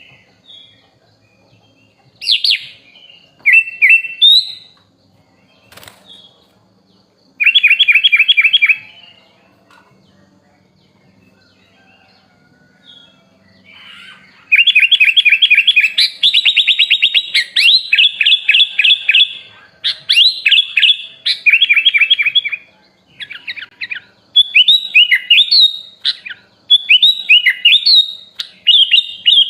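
Sooty-headed bulbul (kutilang) singing: short whistled phrases, then, after a pause of several seconds, long runs of fast repeated notes and rising and falling whistled phrases.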